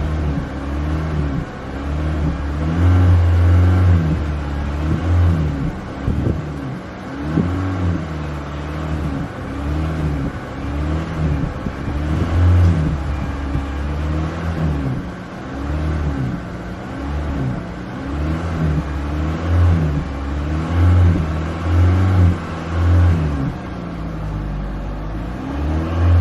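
Honda Civic engine revved over and over by pumping the accelerator pedal, each rev rising and falling back, about once a second.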